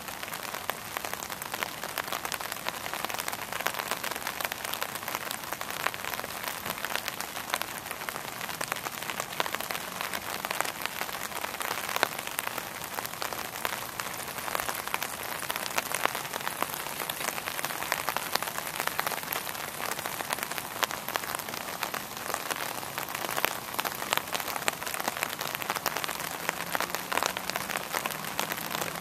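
Steady rain falling, with a dense patter of individual drops ticking close by.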